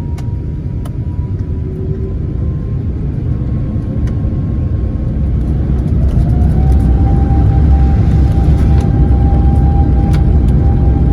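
Airbus A350 jet engines, Rolls-Royce Trent XWB, in a deep rumble that grows louder about six seconds in, with a whine rising in pitch and then holding as the engines spool up for takeoff.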